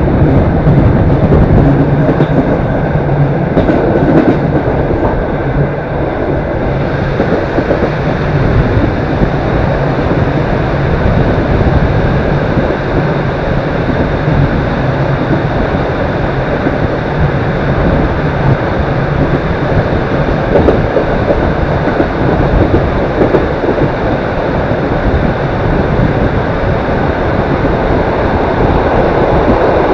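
Long-distance passenger train running along the track, heard from on board: a loud, steady noise of the wheels on the rails.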